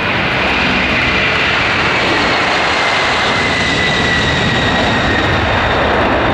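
Jet airliner engines running loud and steady, with a high whine slowly falling in pitch over the noise.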